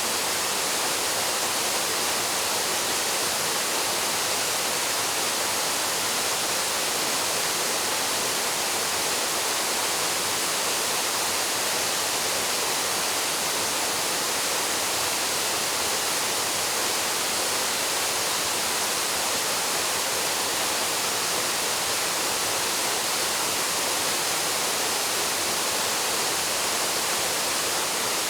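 Waterfall crashing into a plunge pool: a steady, unbroken rush of falling water, heard close.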